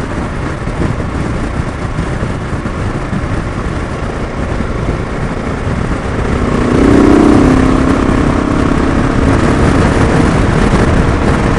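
Motorcycle underway at road speed: steady wind rush and engine noise, with a louder pitched engine tone swelling about seven seconds in.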